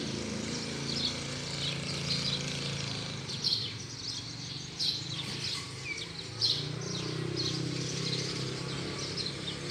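Small birds chirping, short high chirps repeating again and again, over a low steady background rumble.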